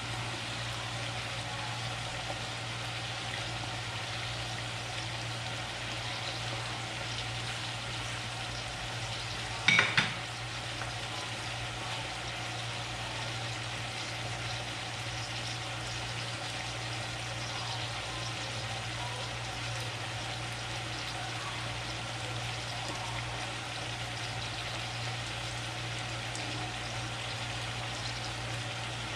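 Chicken, potatoes and carrots sizzling steadily in a frying pan covered with a glass lid. About ten seconds in there is a sharp double clack.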